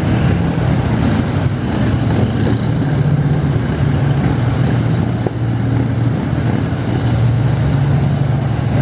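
A group of police motorcycles running together at low speed as they ride tight figure eights, a steady engine hum that shifts a little in pitch.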